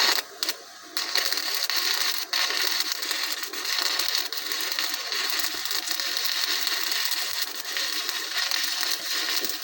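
Electric arc welding: the welding arc's dense, even crackle, starting about a second in and running on with a few brief breaks.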